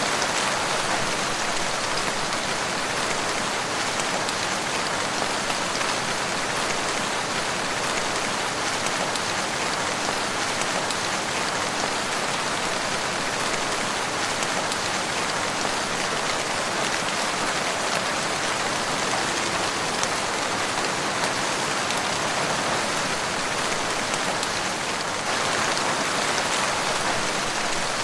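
Steady rain falling on a surface: a dense, even hiss with a few faint scattered clicks.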